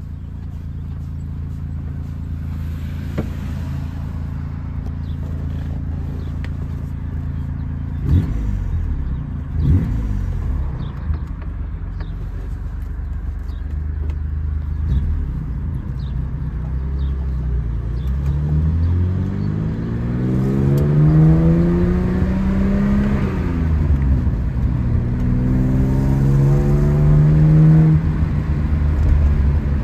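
1972 BMW Bavaria's straight-six engine heard from the cabin with the front windows down, driving in a manual gearbox: steady low revs at first, brief dips in pitch around eight and ten seconds in, then two long rising pulls in the second half, each cut off by an upshift.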